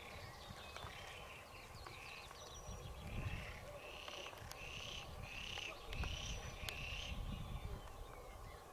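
A bird calling over and over, a short high note about twice a second, stopping about seven seconds in, over a low rumbling background noise.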